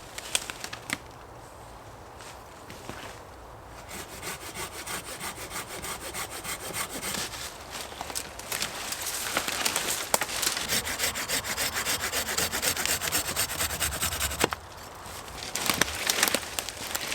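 Hand saw cutting through wood in steady back-and-forth strokes. It starts a few seconds in, stops briefly near the end, then starts again.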